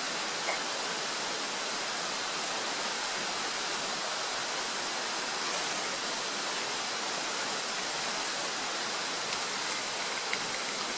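Lorne (square) sausage sizzling in a frying pan over the heat: a steady hiss with a few faint pops.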